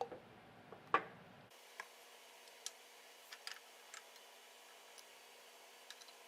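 Sparse, faint clicks and light taps at irregular intervals, the loudest about a second in.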